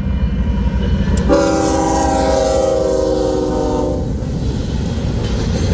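Diesel locomotive horn on a freight train sounding one chord for nearly three seconds, starting about a second in. It is heard over the steady low rumble of the manifest freight train running past.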